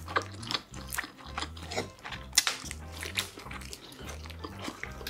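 Close-miked eating sounds: a bite into a piece of spicy buldak food, then chewing with short wet clicks and smacks. The loudest bite comes about two and a half seconds in, over background music with a steady low beat.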